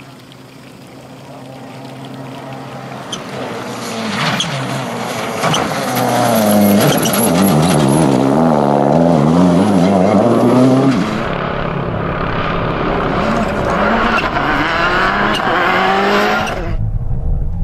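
Rally car engine approaching and growing louder, revving hard, with its pitch rising and falling through gear changes. About eleven seconds in, the sound cuts to another rally car accelerating, and it cuts again near the end.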